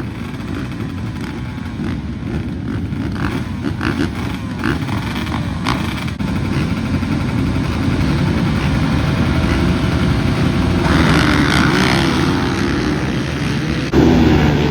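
Dirt bike engine running, gradually getting louder, with a sudden jump in level near the end.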